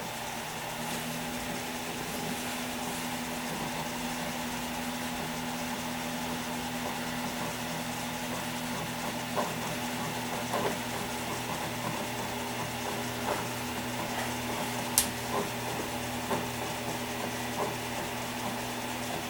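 Desktop PC running with a steady hum from its fans and spinning hard drives, with a few scattered sharp clicks, the loudest about 15 seconds in.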